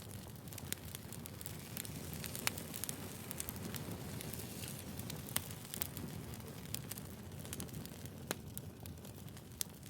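Wood fire crackling: a steady low rumble of burning logs with irregular sharp pops, the loudest about two and a half seconds in and again about five and a half seconds in.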